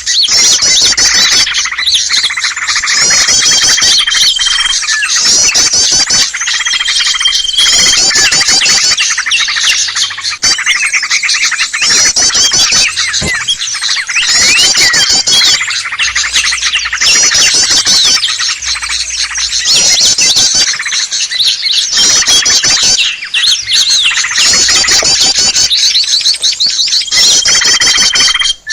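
Bird-lure recording: a dense, noisy chorus of many small songbirds chattering and chirping rapidly together. A clear held whistle note stands out three times.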